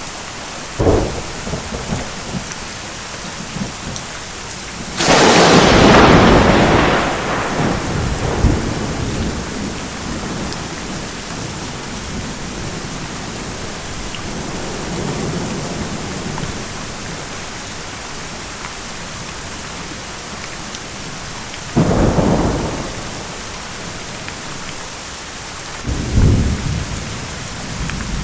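Steady rain with a thunderstorm overhead. A short thunderclap comes about a second in. The loudest, a close crack about five seconds in, rolls on for a few seconds. A faint rumble follows midway, and two more sharp claps come near the end.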